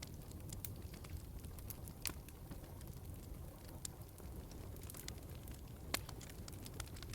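Log fire crackling in a fireplace: irregular sharp pops and snaps over a low, steady rumble, with the loudest pop about six seconds in.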